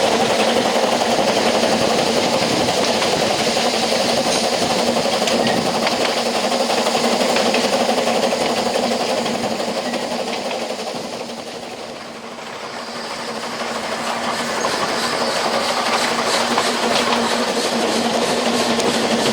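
Narrow-gauge passenger coach running along the track, heard from on board: a steady wheel-and-rail rumble with the clack of rail joints. It fades to its quietest about twelve seconds in, then builds back up.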